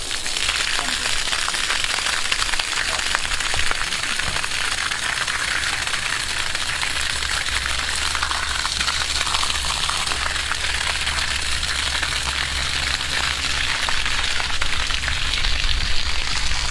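Water rushing and splashing steadily, as from the outlet of an engineless water pump.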